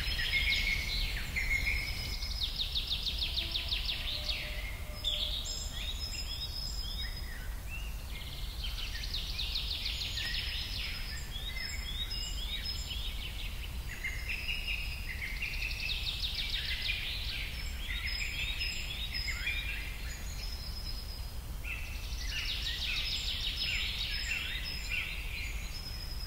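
Forest birds singing: bouts of rapid trills and quick falling chirps that come back every six or seven seconds, over a steady low rumble.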